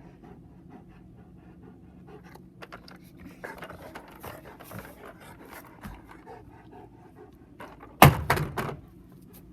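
A German Shepherd dog panting, with a loud burst of sharp knocks about eight seconds in, lasting under a second.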